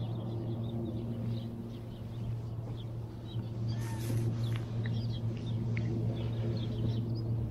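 Small birds chirping in short, scattered calls over a steady low hum, with a brief rustle about four seconds in.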